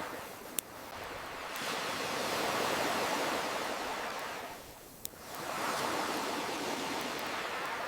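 Ocean waves washing in and receding in two slow swells, with a sharp pop from a crackling bonfire twice, about half a second in and about five seconds in.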